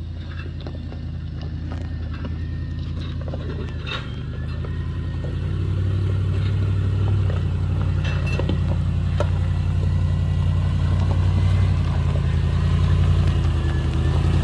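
A motor vehicle's engine running steadily and growing gradually louder, with a few light clicks and knocks over it.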